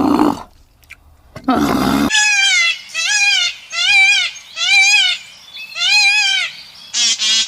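A kitten meowing: five high, rising-and-falling mews about a second apart, then a quicker stuttering call near the end. It is preceded by a rough, low growl-like call at the start and again just before the mews begin.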